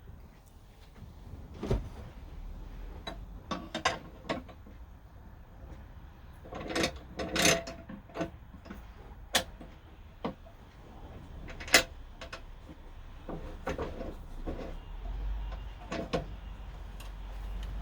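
Irregular knocks and clicks of parts and tools being handled on a workbench, the sharpest about two, seven and twelve seconds in, with a low hum coming in near the end.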